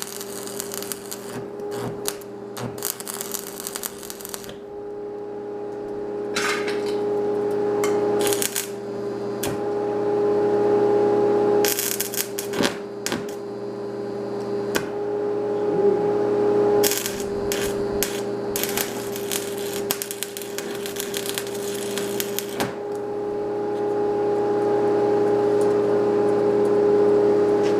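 Electric welder humming steadily, with several stretches of sputtering arc crackle as a battery bracket is welded onto a tractor.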